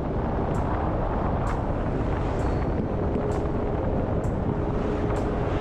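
Steady road and wind noise of a moving vehicle, with faint sharp ticks about once a second.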